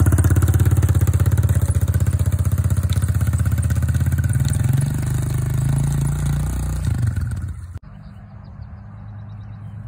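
Dirt bike engine running loud and close, its pitch rising a little about five seconds in. It cuts off abruptly near the end, leaving only a faint low rumble.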